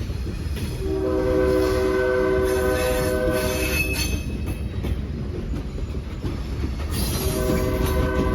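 Locomotive air horn sounding a multi-note chord, one long blast of about three seconds and a second blast starting near the end, over the continuous low rumble of a train.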